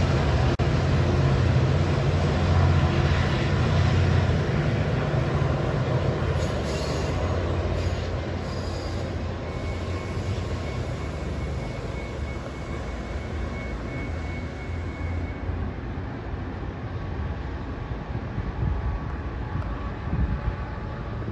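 Sounder diesel commuter train's bilevel coaches rolling past on the rails: a heavy low rumble that fades as the train pulls away. A faint thin squeal from the wheels runs through the middle stretch, and the sound is quieter near the end.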